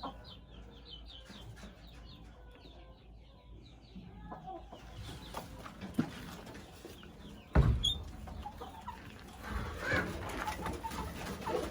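Gamefowl chickens clucking softly, with scuffling movement and one sudden loud thump a little past halfway.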